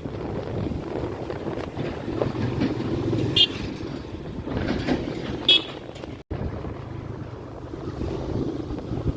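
Motorcycle running along the road with wind buffeting the microphone, a steady low rumble throughout. Two short high chirps come about three and five and a half seconds in, and the sound cuts out abruptly for an instant a little after six seconds.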